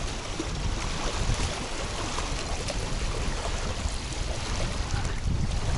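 Strong gusty wind buffeting the microphone: a steady low rumbling rush with hiss across the range.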